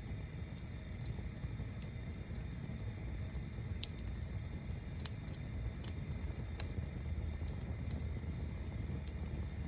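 Wood bonfire burning, with a steady low rumble and sharp crackles and pops at irregular intervals, a handful of them louder than the rest.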